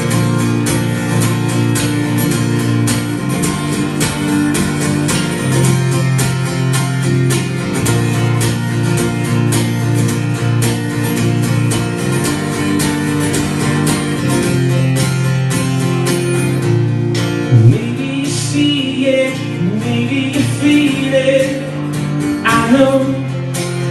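Band music, the instrumental intro of a guitar-led song: guitars holding a chord pattern over a steady beat, with sliding higher notes coming in about three quarters of the way through.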